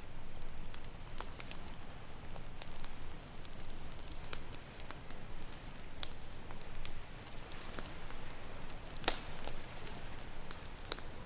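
Wood campfire crackling, with scattered sharp pops and one louder pop about nine seconds in, over a steady low wash of ocean surf.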